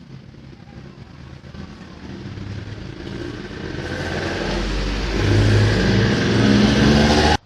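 A vehicle engine running and growing steadily louder, rising in revs, then cutting off abruptly.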